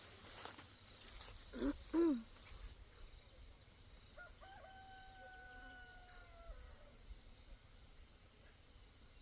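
Two loud, short calls from chickens about a second and a half in, then a rooster crowing: one long, level crow that drops in pitch at the end. Insects keep up a steady high buzz underneath.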